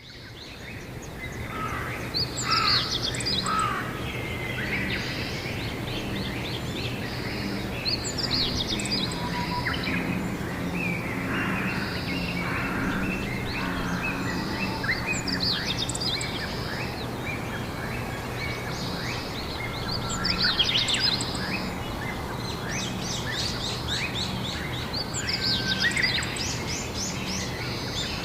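Songbirds singing outdoors, short trilling song phrases repeating every few seconds over a steady low background hum. The sound fades in at the start.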